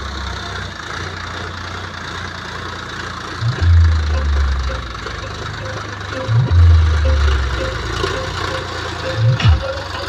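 Tractor engine running steadily, with two louder low surges of about a second each, roughly three and a half and six and a half seconds in.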